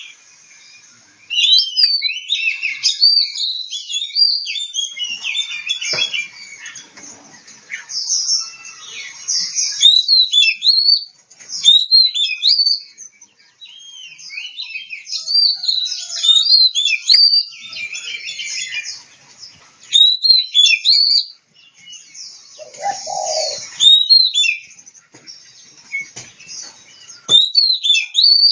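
Oriental magpie-robin (kacer) singing: a run of clear, varied whistled phrases that swoop up and down, delivered in bursts with short pauses between them.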